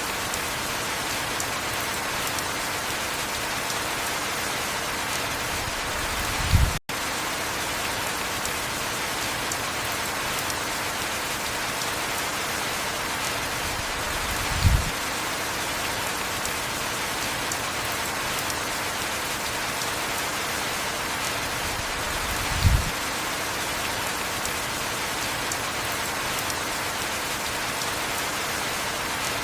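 Heavy rain falling steadily, an even hiss. A short low thump comes three times, about eight seconds apart, and the sound cuts out for an instant about seven seconds in.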